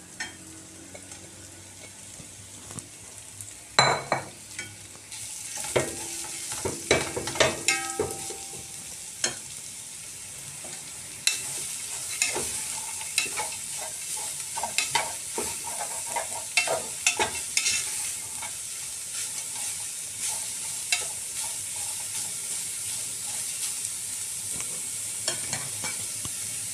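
Shredded carrots sizzling in hot oil with garlic in a metal pot, frying off their water, while a spoon stirs them, scraping and knocking against the pot. The sizzle gets louder about five seconds in and again around eleven seconds, and the loudest sound is a single knock about four seconds in.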